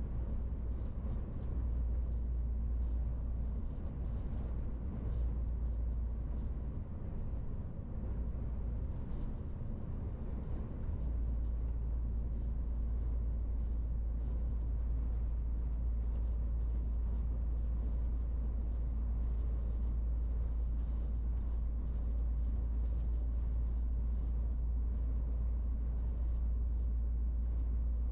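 MAN TGX 18.470 truck on the move: steady engine and road noise with a heavy low rumble. The rumble wavers for the first ten seconds or so, then holds steady.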